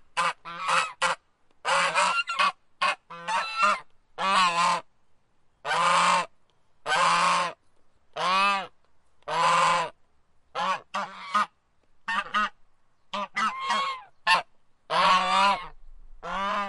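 Waterfowl honking over and over, a run of loud calls about once a second, some clipped short and some longer ones that bend down in pitch.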